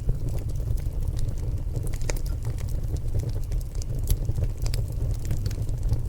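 Wood fire burning in a stone fireplace: a steady low roar with scattered sharp crackles and pops from the burning logs.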